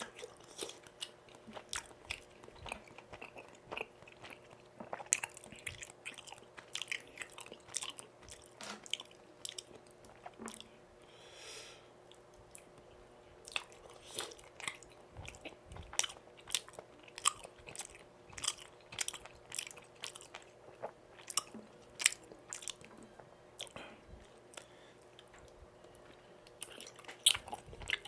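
Close-miked chewing and biting of food: irregular wet mouth smacks and clicks, several a second, over a faint steady hum.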